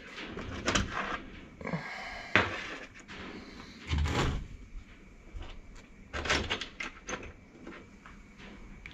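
Small metal gearbox parts handled on a workbench: scattered clicks and knocks, with the loudest about four seconds in and another cluster a little after six seconds.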